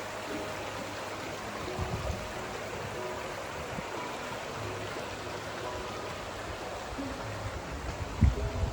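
A rocky mountain stream rushing steadily. A few short low thumps come about two seconds in and again near the end.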